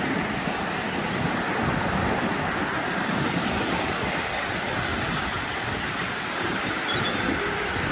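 A miniature railway train running on the track: a steady rumble of wheels on the rails, with wind on the microphone. A few faint high chirps come near the end.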